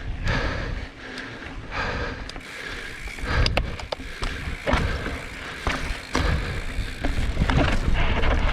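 2019 YT Jeffsy 29er mountain bike rolling fast down a dirt trail: tyres on dirt and gravel with repeated rattles and knocks as the bike goes over bumps, and wind buffeting the microphone.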